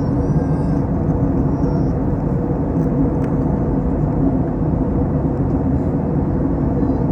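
Steady in-flight cabin noise of an Airbus A321: a constant rumble of engines and airflow with a low steady hum.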